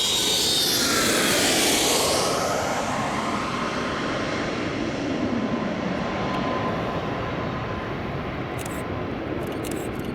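Boeing 757-200's Pratt & Whitney turbofan engines going past on landing: the engine whine falls in pitch over the first two seconds as the jet passes, then the noise slowly fades into a steady rumble.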